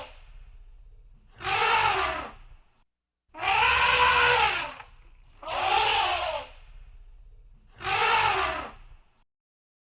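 Elephant trumpeting: four calls about two seconds apart, each a second or more long and arching up then down in pitch, with a low rumble under each. The second call is the longest.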